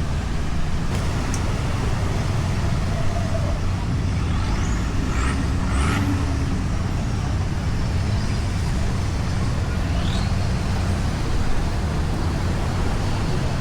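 Steady low outdoor rumble with no break, of the kind heard along a busy road, with a few faint short rising chirps about halfway through.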